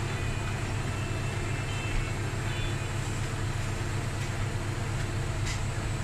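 Beko washing machine running with a steady low rumble.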